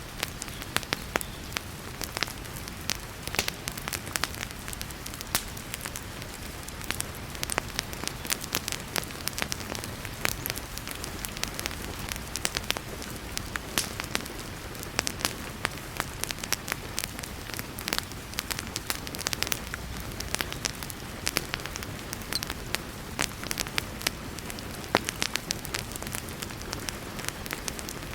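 Wood fire crackling with frequent sharp irregular pops over a steady hiss of heavy rain.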